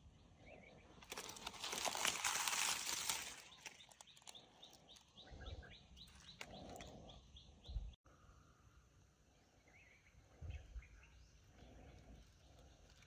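Outdoor ambience: a loud rustle lasting about two seconds near the start, then a small bird chirping in a fast run of short repeated notes, with a few soft thuds and fainter chirps later.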